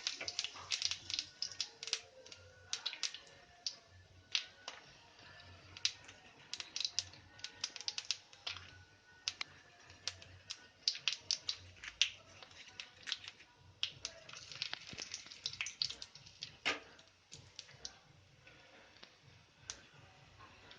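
Kitchen utensils at work in quick irregular runs of sharp clicks and taps, with faint music beneath.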